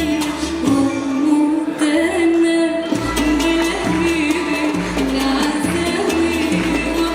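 Arabic choir singing with an instrumental ensemble, over a bass line that changes note about once a second and light percussion.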